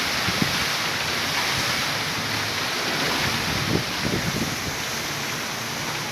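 Steady rain falling in a cyclone, with wind buffeting the microphone and a few dull low knocks, one near the start and a cluster about four seconds in.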